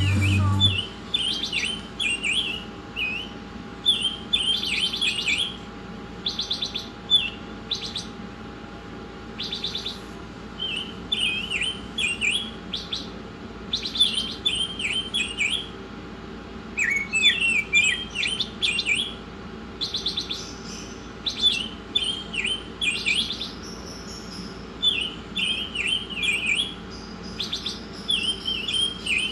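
A songbird singing in repeated short phrases of quick chirping notes, broken by brief buzzy trills, over a faint steady hum.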